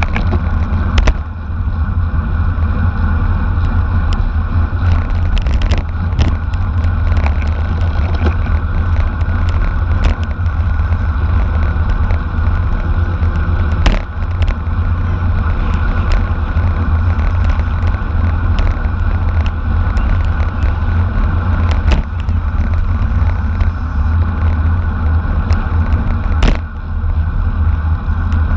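Heavy wind rumble on an onboard camera microphone riding with a road bike in a race, with scattered sharp clicks and knocks from the bike over the road.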